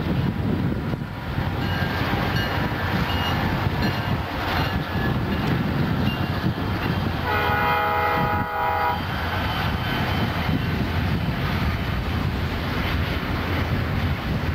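Norfolk Southern freight train rolling past, its diesel locomotives and then its freight cars making a steady rumble on the rails. About halfway through, a train horn sounds once for about a second and a half.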